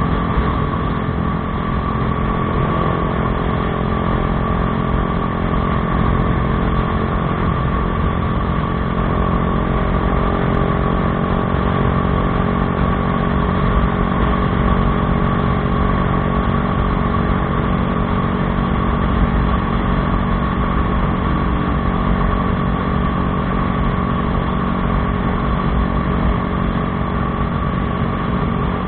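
Bajaj Dominar 400's single-cylinder engine running steadily through an aftermarket Akrapovič exhaust, holding an even note with no revving.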